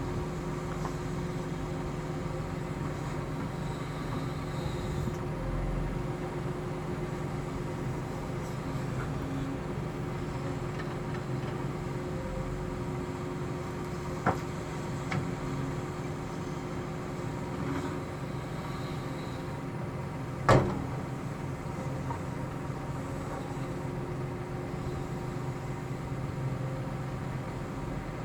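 Diesel engine of a CAT 330F excavator running steadily at a work site. A few sharp knocks cut through it, the loudest about twenty seconds in.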